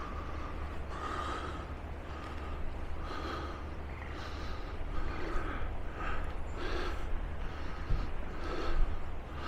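A person's breathing close to the microphone, in short soft puffs about once a second, over a low steady rumble.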